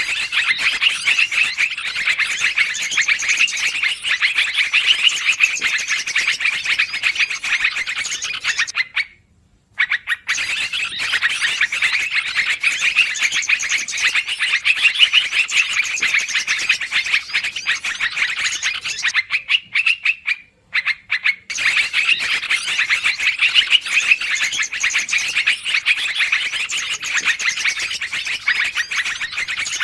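Recorded lure call of yellow-vented bulbuls (trucukan), noisy excited chattering of rapid bubbly calls, played back as a bird-trapping call. It runs in stretches of about ten seconds, broken by short silent gaps twice.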